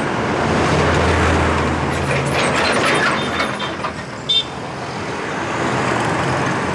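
Road traffic with a truck engine running, a low hum most prominent in the first few seconds. A short high beep sounds once, about four and a half seconds in.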